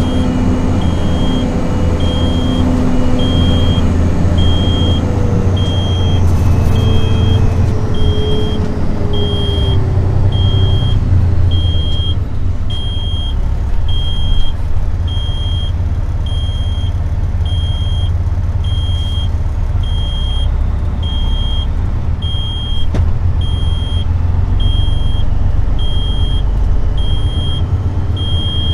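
Heavy truck's diesel engine rumbling, with its pitch sliding down about a third of the way in as it eases off, under a steady high electronic beep repeating a little over once a second.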